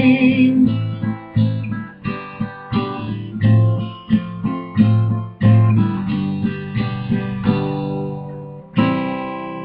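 Acoustic guitar playing the song's closing instrumental: a run of picked notes over bass notes, ending on one final strummed chord about nine seconds in that is left to ring out and fade.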